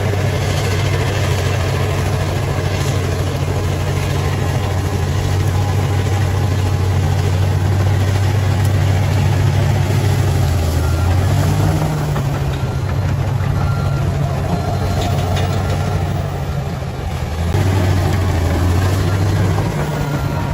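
Bulldozer's diesel engine running with a steady low drone, its pitch shifting a little past halfway and again near the end as the load changes, with a brief drop in level just before the last shift.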